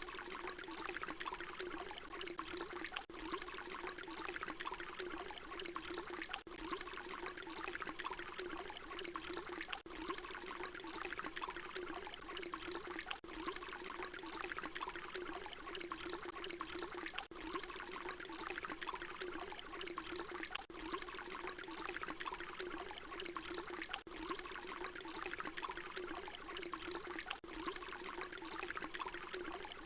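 Water pouring in a steady continuous stream, with a brief dip in the sound about every three and a half seconds where the short recording repeats.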